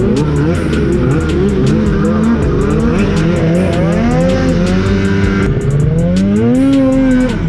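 Two-stroke snowmobile engine revving under throttle, its pitch rising and falling repeatedly, climbing to a held high note near the end and then dropping off.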